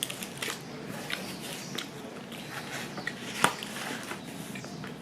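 Biting into and chewing crunchy fast food, a McDonald's hash brown, with scattered crisp crackles and one sharp crack about three and a half seconds in.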